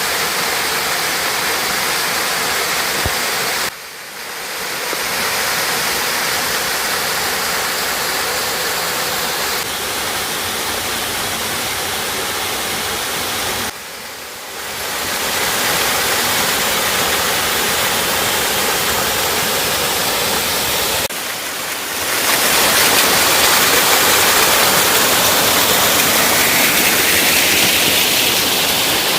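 Gankutsu Falls, a waterfall, rushing steadily, a dense even roar of falling water. The roar drops abruptly and swells back up three times, about 4, 14 and 21 seconds in.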